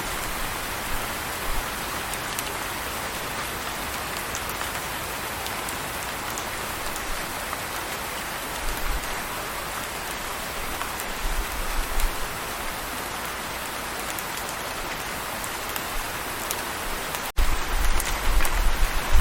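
Steady rain falling, an even hiss of drops, with a few brief low rumbles. About 17 seconds in there is a momentary dropout, and then the low rumbling grows stronger.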